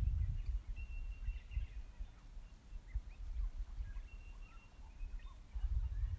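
Several birds calling: short chirps and a few held whistled notes, overlapping. Wind rumbles on the microphone at the start and again near the end.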